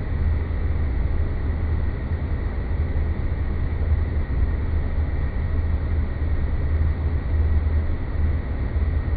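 Steady low rumbling ambient drone with a faint thin high tone held throughout.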